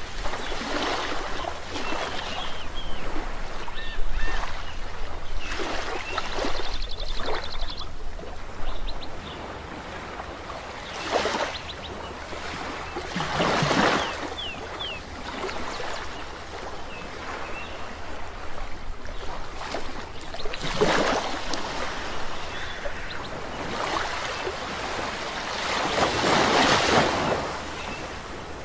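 Sea waves breaking and washing up on a shore, with louder surges every few seconds, the biggest near the end. Short, high bird chirps and a brief rapid trill sound over the surf.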